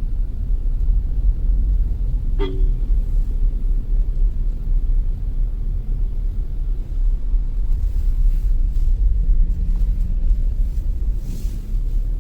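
Steady low rumble of a road vehicle on the move, with one short horn toot about two and a half seconds in.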